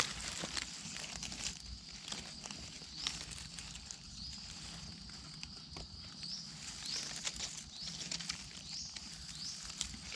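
Scattered rustling and crackling of dry leaves and twigs underfoot as someone moves through forest litter. Behind it a high, thin animal call keeps going, rising at its start several times a second or so apart.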